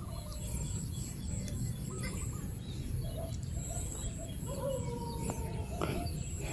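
Birds chirping with short calls and a few brief whistled glides, over a steady low background noise.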